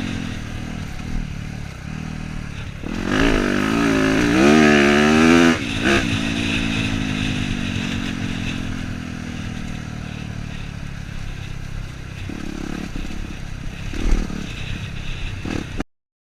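Dirt bike engine running under a rider: revved harder for a couple of seconds a few seconds in, its pitch wavering, then eased off with the pitch slowly falling. The sound cuts off abruptly just before the end.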